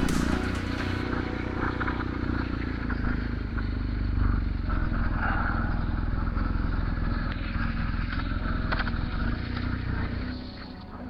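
BMW R1250 GS Adventure's boxer-twin engine running steadily while the motorcycle is ridden. The sound drops in level near the end.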